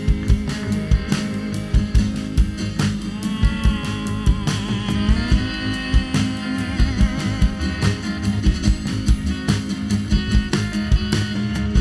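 Live rock band playing an instrumental passage: drum kit keeping a steady beat under upright bass and guitars, with a guitar line bending and wavering in pitch.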